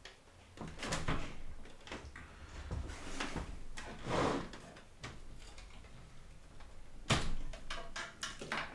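Clicks, knocks and scrapes of hands working at the metal and plastic parts inside an old desktop PC case to free the graphics card, with a sharp knock about seven seconds in.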